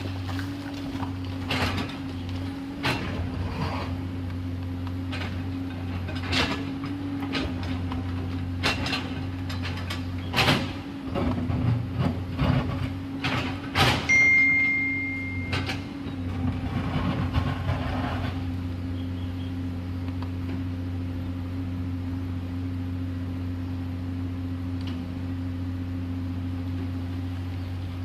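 Komatsu PC210LC excavator's diesel engine running steadily while the machine works, with a string of knocks and clanks through the first half that grow louder just before the middle. A steady high tone sounds for about two seconds near the middle.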